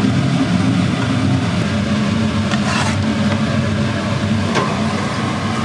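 A steady, loud mechanical hum, with a few faint light clicks.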